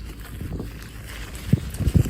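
Wind noise on the microphone and low road rumble from a moving bicycle, with a few low thumps near the end.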